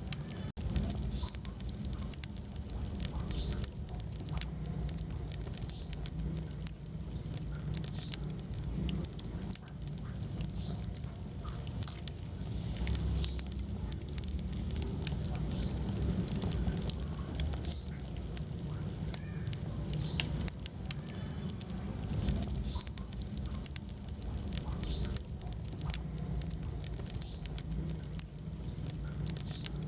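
Wood fire crackling in a fireplace: frequent sharp pops and snaps of burning wood over a steady low rumble of the flames.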